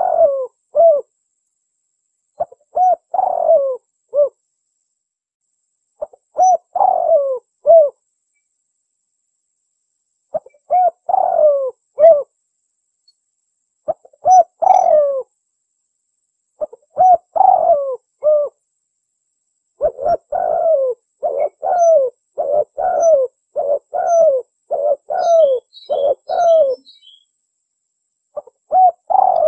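Spotted dove (tekukur) cooing, a contest bird's call used as a lure for wild doves. Short phrases of a few low coos come every three to four seconds, then a quicker run of many short coos about two-thirds of the way through. Faint high chirps come near the end.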